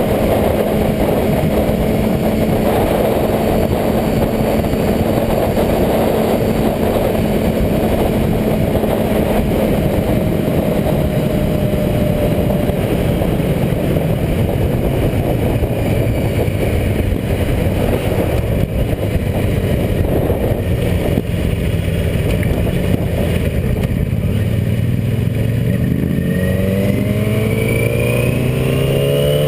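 Motorcycle engine running steadily, its pitch rising over the last few seconds as it accelerates.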